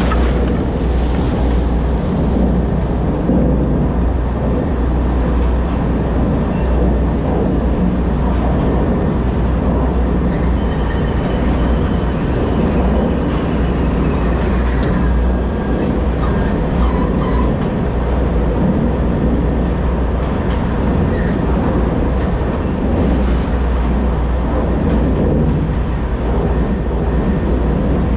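Semi truck's diesel engine running steadily, heard as a loud, continuous low drone with rumble.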